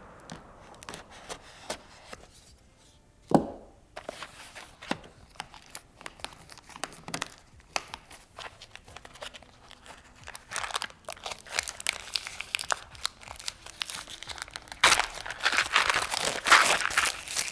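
Plastic packaging wrap being cut, torn and crumpled by hand in small crackles, with one sharp knock about three seconds in. The crinkling grows denser and louder near the end.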